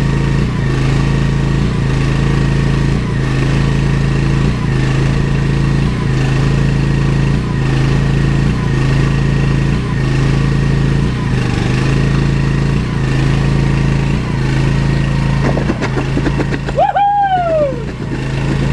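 An engine running steadily, its hum pulsing about once a second. Near the end a brief high squeal falls in pitch.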